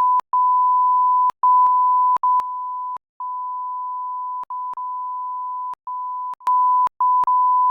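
Censor bleep: one steady, high beep tone held for the whole stretch, cut by a dozen brief gaps and clicks, dropping in loudness about two seconds in and rising again near the end.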